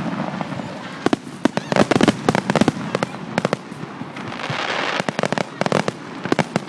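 Fireworks display: rapid sharp bangs and crackling, with a hissing rush about four seconds in.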